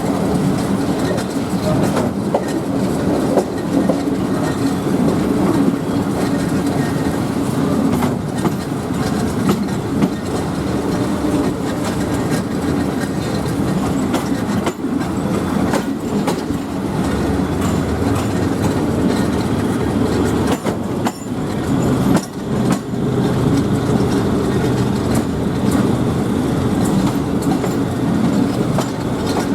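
Passenger train running on the rails: a steady rumble and drone with wheels clattering over the rail joints.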